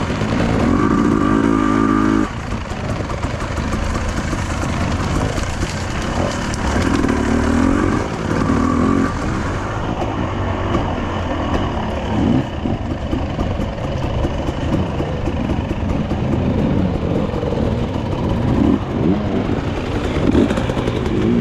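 Enduro motorcycle engine running under load. Its note holds steady for about two seconds, drops, then rises and falls again and again as the throttle is worked.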